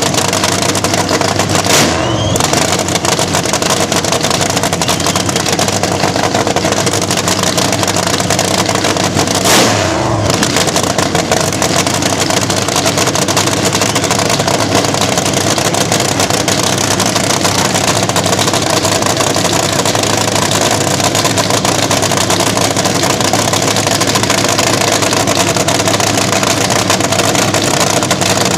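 Slingshot drag racer engine running loud and steady, with two short louder blips, about two seconds in and about ten seconds in.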